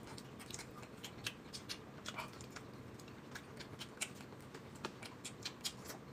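Faint, irregular wet clicks and smacks of someone chewing dumplings close to the microphone, several a second with a few louder ones.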